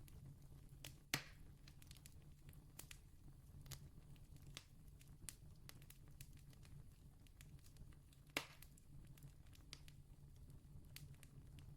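Wood campfire crackling faintly, with scattered small snaps and two sharper pops, one about a second in and one near the end, over a low steady rumble.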